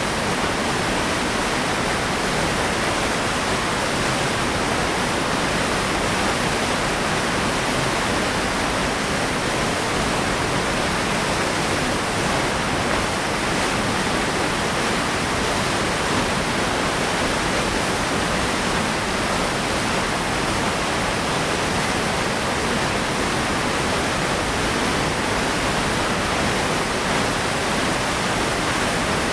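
Waterfall pouring down, a steady, unbroken rush of falling water with no changes.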